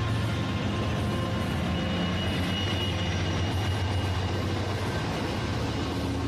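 A train running: a steady low rumble that does not let up, with a few faint held tones above it.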